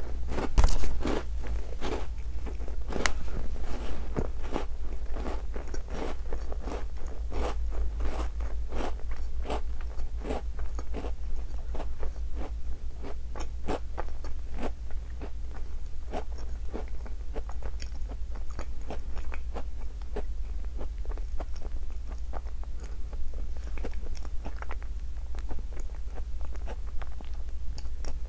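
Close-up chewing of a Tim Tam chocolate biscuit: a steady run of crunching and crackling as the biscuit is chewed with the mouth closed, the crunches coming thick at first and thinning out later.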